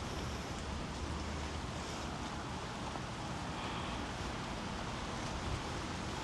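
Steady outdoor background noise: an even hiss with no distinct sounds standing out.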